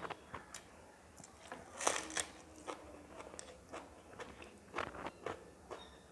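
Close-miked eating sounds: a person chewing a mouthful of rice and fish, with scattered wet mouth clicks and smacks, the loudest cluster about two seconds in.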